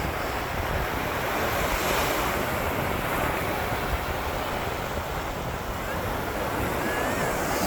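Ocean waves breaking and washing on a beach, a steady rushing surf that swells and eases, with wind buffeting the microphone.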